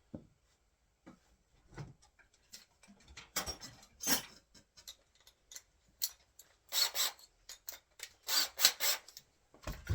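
Irregular rubbing and scraping strokes on the wooden edge of a door as it is marked out, sparse at first and then quicker and louder from about three seconds in.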